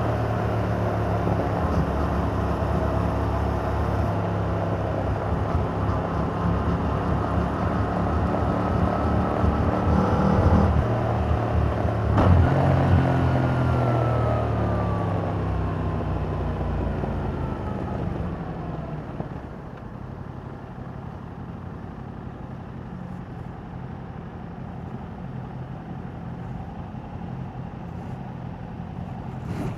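2021 Yamaha MT-07's 689 cc parallel-twin engine through its stock exhaust, pulling with rising revs, then a quick gear change about twelve seconds in. The revs then fall steadily as the bike slows, and the engine settles into a quieter, steady low running for the last ten seconds.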